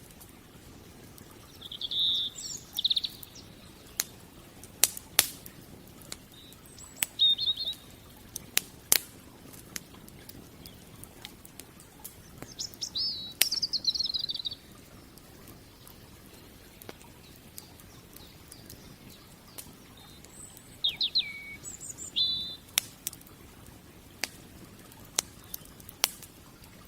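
Wood fire crackling, with scattered sharp pops over a low steady hiss. Small birds chirp in short phrases about four times, the loudest being a longer trill about halfway through.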